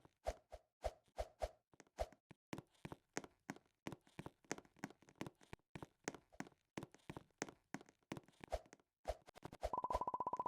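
An irregular run of short, soft taps or knocks, several a second, followed near the end by a brief steady buzzing tone.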